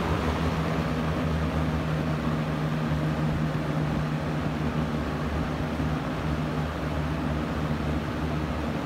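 Late-1970s Lasko model 4746 20-inch box fan running steadily on medium: the rush of air from the blades over a steady motor hum. Like the fan's other speeds, medium runs fast, about like high on most fans.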